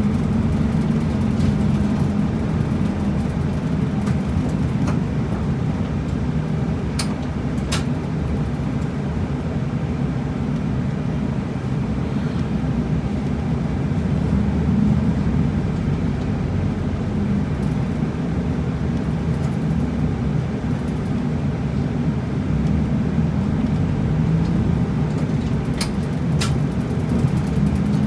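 Route bus driving along, heard from inside the cabin: a steady low engine and road rumble, with a few short clicks or rattles.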